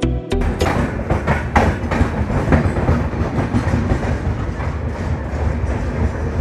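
Double-decker express train running on the track: a steady rumble with irregular clicks of the wheels over rail joints.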